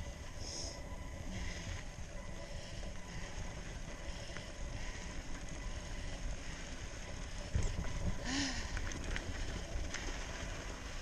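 Mountain bike rolling along a dirt trail: a steady low rumble of tyres and wind on the microphone, with scattered clicks and rattles, and a brief louder rustle about eight seconds in.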